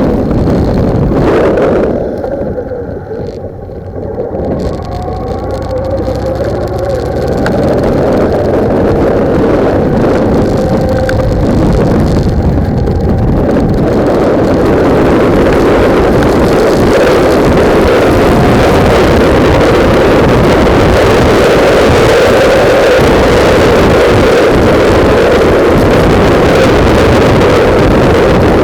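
Heavy wind buffeting on a motorcycle-mounted camera's microphone, with the motorcycle engine underneath. The wind eases about two seconds in, then builds again from around seven seconds in with a rising engine note, and stays loud and steady after that.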